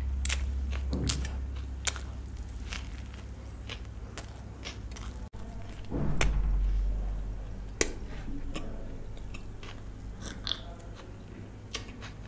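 Close-miked chewing and biting of food, with sharp wet mouth clicks scattered throughout and a louder stretch of chewing about six seconds in.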